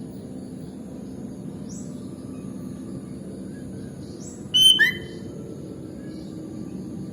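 Sooty-headed bulbul (kutilang) calling: faint short rising whistles, then a loud half-second burst of quick chirping notes about two-thirds of the way through, over a steady low background hum.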